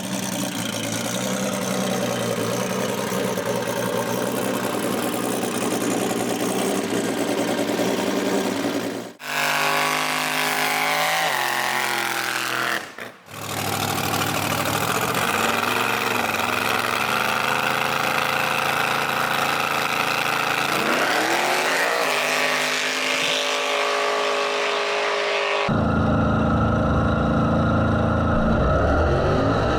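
Drag race cars' engines running hard in several clips cut together, the pitch climbing as they accelerate.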